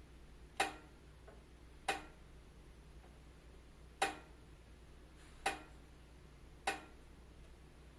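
Wood fire in a fireplace crackling: five sharp pops at uneven intervals, about one to two seconds apart, over a faint steady low hum.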